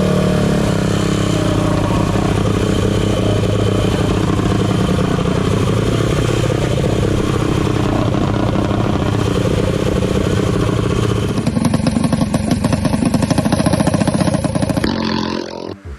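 Drag minibike's small pushrod four-stroke engine running and being revved, its pitch rising and falling several times. About three-quarters of the way in it turns louder and choppier, then cuts off near the end.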